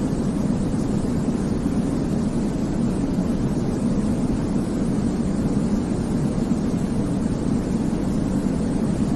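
Baby-sleep white noise: a steady, deep rumbling hiss that does not change, with most of its weight in the low range.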